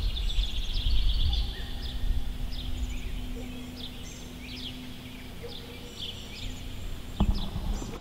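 Songbirds chirping, many short calls over a low outdoor rumble that is loudest in the first couple of seconds. A single sharp thump comes about seven seconds in.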